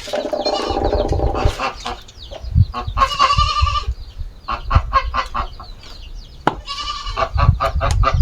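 Chickens clucking and squawking in a few loud, drawn-out calls, with a low rumble underneath.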